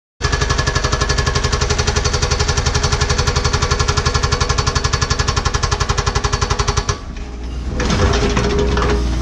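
Hydraulic rock hammer on a Cat 314E excavator pounding hard bedrock in rapid, even blows, about a dozen a second. The hammering stops about seven seconds in, leaving the excavator's diesel engine running with some irregular clatter.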